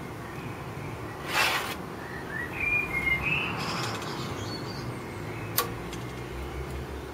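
Birds chirping in short calls, with a brief rustle about a second in and a single sharp click near the end.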